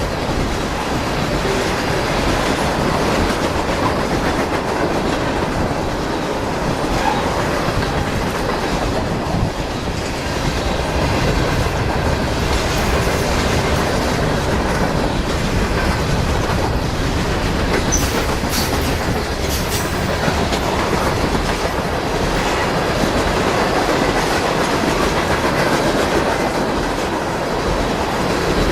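Railroad cars rolling past in a steady loud rumble, their wheels clacking over rail joints, with a few sharp clanks about two-thirds of the way through.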